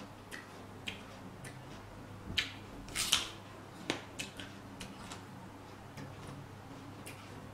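Close-miked crunching of raw vegetables being chewed: irregular crisp crunches, the loudest cluster about three seconds in.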